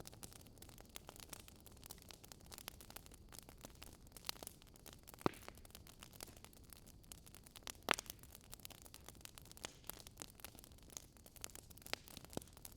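Wood fire crackling faintly: irregular sharp pops and ticks over a soft hiss, with two louder pops about five and eight seconds in.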